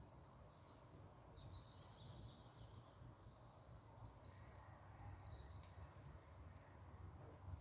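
Near silence over a low background rumble, with a few faint, high, short chirps from a bird in the first half and middle.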